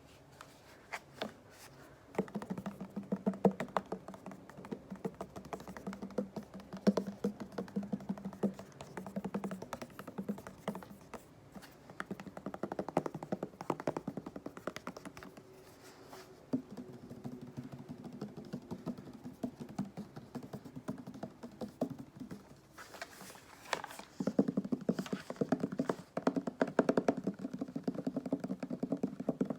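Rapid, dense tapping and scratching on cleaning goods such as sponges: fast clicks over a rough rustle. It starts sparse, turns busy about two seconds in, eases off briefly near the end, then picks up again.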